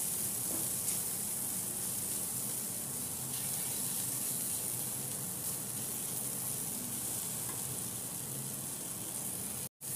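Chopped vegetables and spices sizzling steadily in oil in a nonstick frying pan as they are stirred with a wooden spatula. The sound drops out for a split second near the end.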